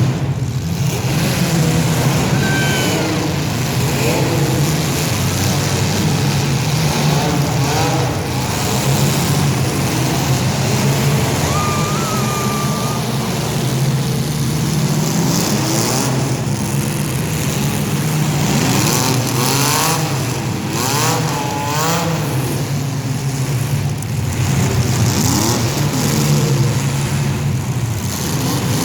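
Several compact demolition derby cars' engines running and revving together, their pitches rising and falling over one another as the cars accelerate and back off.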